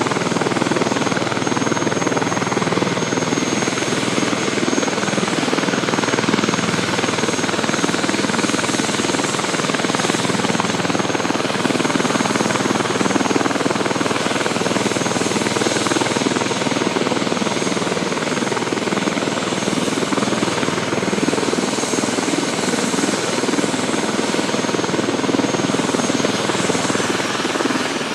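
Airbus Helicopters H145 D2 twin-turbine helicopter running steadily at close range: a dense, even rotor and turbine noise with a thin, steady high whine over it.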